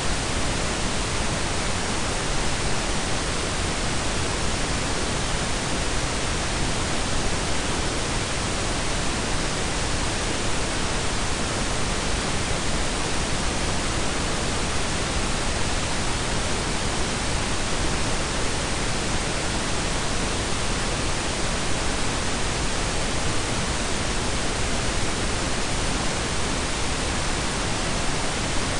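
Synthetic pink and brown noise blended together: a steady, even hiss with a deep rumble beneath, unchanging throughout.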